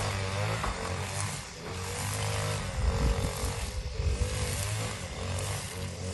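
A small engine running steadily with a low hum, its pitch wavering slightly.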